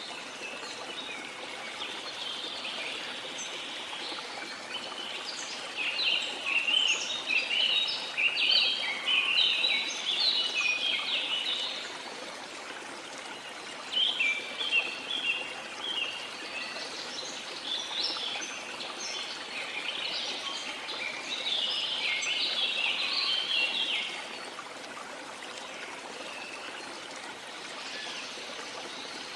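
A steady rush of water, with small birds chirping and twittering in quick, dense runs over it, in two spells, the first ending around the middle and the second stopping about five seconds before the end.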